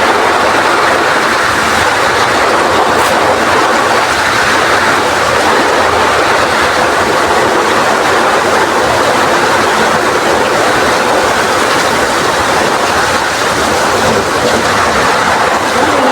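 Heavy rain driven by strong wind: a loud, steady rushing hiss.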